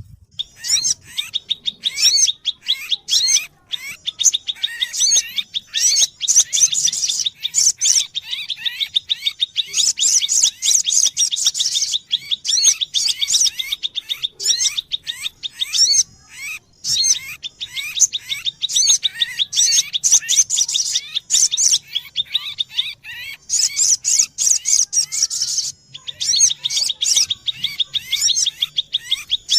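Sogo ontong sunbird calls: rapid, high-pitched chirps and twitters in a nearly continuous stream, over a steady thin high tone.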